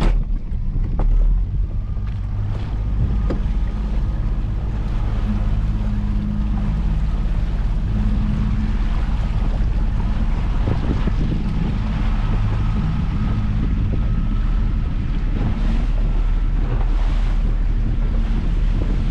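A small fishing boat's engine running steadily under way, with wind buffeting the microphone and water rushing past the hull.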